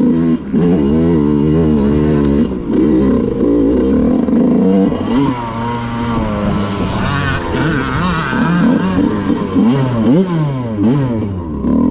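Two-stroke dirt bike engines revving, their pitch climbing and dropping again and again, with more than one bike running at once.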